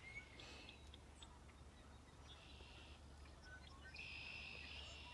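Faint birdsong: a buzzy, high trill repeated about three times, over a low steady background hum.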